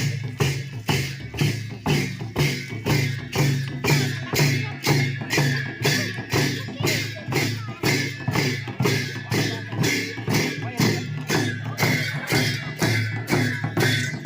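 Sakela dance music: a dhol drum and jhyamta cymbals beating a steady rhythm of about two and a half strokes a second.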